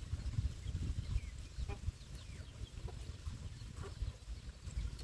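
Farm animal sounds: scattered short, high chirps over an uneven low rumble.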